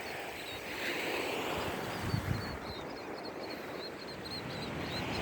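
Beach ambience: small waves washing ashore in a steady hiss that swells a little, with faint, repeated high chirps of birds and a brief low bump about two seconds in.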